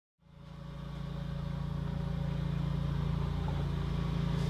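Motorcycle engine running steadily at a constant pitch, fading in from silence just after the start.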